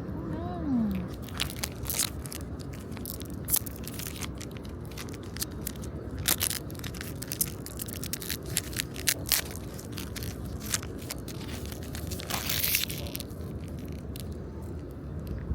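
Crinkling plastic-foil wrappers of trading-card booster packs being handled and opened, with sharp irregular crackles throughout and a longer rustle about twelve seconds in.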